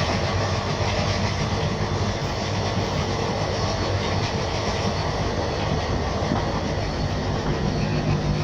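Passenger train hauled by a WDG3A diesel locomotive running along the rails: a steady, loud rumble with wheels clattering over the track.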